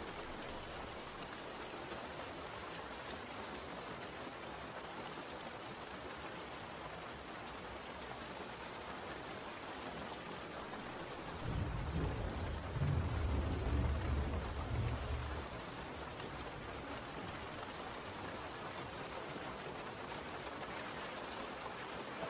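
Steady rain falling, with a low rumble of thunder rising about halfway through and dying away some four seconds later.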